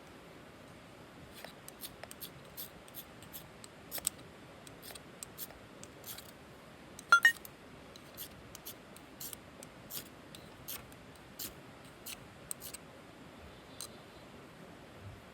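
A string of short, crisp snipping clicks at an irregular pace, with one louder ringing metallic clink about seven seconds in.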